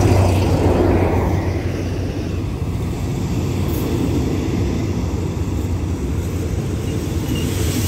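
Diesel locomotive passing at close range with a low engine drone, loudest in the first second or so, then passenger coaches rolling past with a steady rumble of wheels on the rails.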